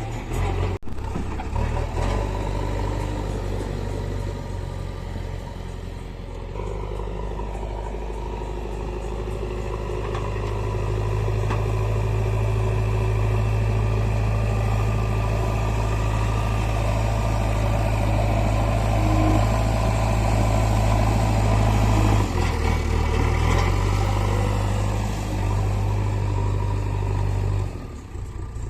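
Heavy diesel machinery running steadily: tractor and backhoe loader engines whose low note shifts in steps about 2, 6 and 22 seconds in, and grows louder toward the middle.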